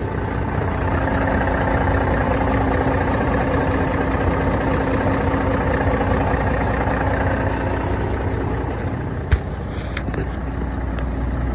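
1995 Mack CH613 truck's single-turbo diesel engine idling steadily. A single sharp knock sounds about nine seconds in.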